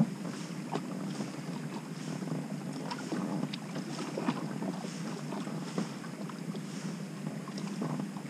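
Wind and small waves lapping against a small boat's hull, with scattered light knocks and clicks.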